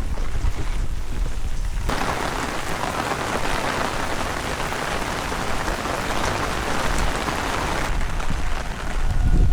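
Heavy rain hissing down, with wind rumbling on the microphone. The rain's hiss comes in suddenly about two seconds in and cuts off sharply near the end, leaving mainly the low wind rumble.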